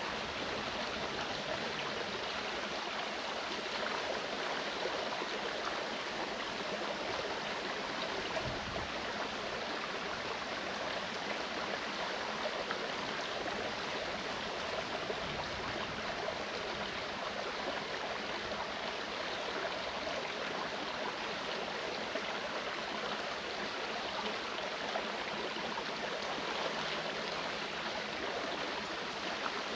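Mountain stream flowing and babbling over rocks, a steady rush of water.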